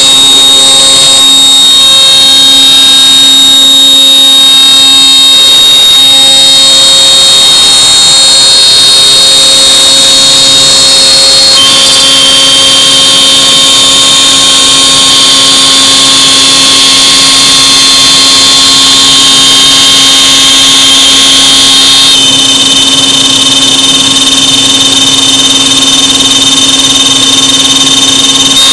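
CNC router running: a steady high spindle whine over a machine hum, with the tone shifting about twelve seconds in and again about twenty-two seconds in.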